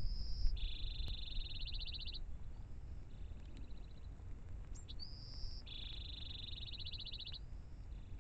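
A songbird singing twice, about five seconds apart: each song is a short rising whistle followed by a long, even trill of quick repeated notes.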